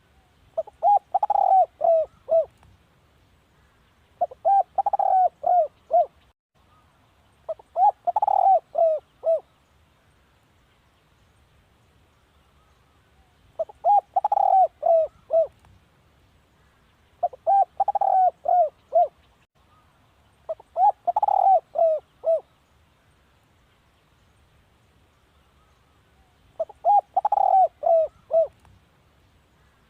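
Spotted dove cooing. It gives seven phrases of several short coo notes, each phrase about two seconds long, repeated every three to four seconds, with a longer pause in the middle.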